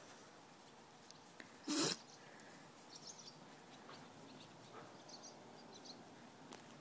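A dog sneezing once, sharply, about two seconds in: one of a run of sneezes in a sneezing fit.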